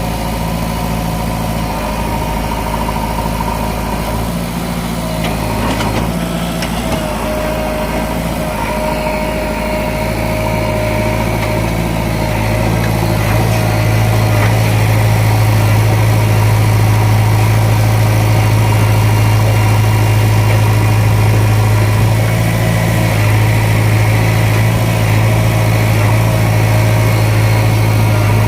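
JCB 3DX backhoe loader's diesel engine running steadily. About halfway through it grows louder and its low hum strengthens, then holds steady.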